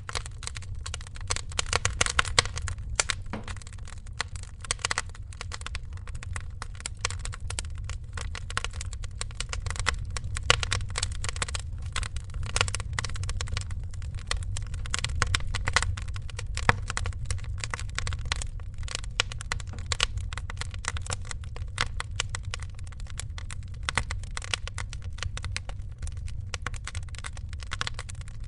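Wood fire in a fireplace crackling, with a dense, irregular run of sharp pops and snaps over a steady low rumble of the flames.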